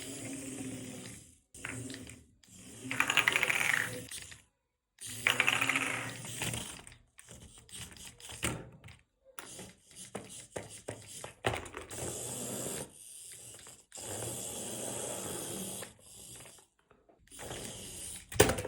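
Small electric motor and gear drive of a radio-controlled car whirring in bursts of a second or two, starting and stopping abruptly again and again.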